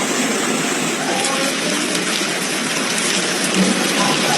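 Storm water rushing and pouring in a steady, heavy stream, keeping an even loudness throughout.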